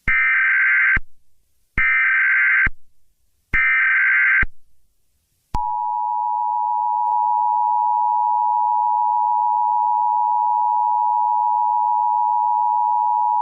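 Emergency Alert System tones: three one-second bursts of the SAME digital header, a buzzy warbling data signal, then about five and a half seconds in the steady two-tone EAS attention signal begins. Together they mark the start of a new emergency alert message.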